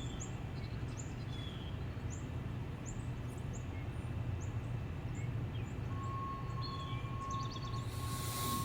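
Small birds chirping in short, scattered calls over a steady low outdoor hum. About six seconds in, a steady high tone starts and runs on in broken stretches.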